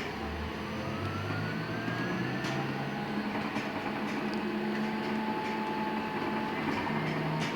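Inside a LiAZ-6274 electric bus pulling away from a stop: the traction motor's whine rises in pitch over the first couple of seconds as the bus gathers speed, over a steady running hum and road noise.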